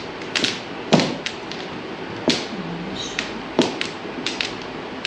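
Mahjong tiles clacking on the table as they are discarded and drawn, in about eight or nine separate sharp clicks at an uneven pace.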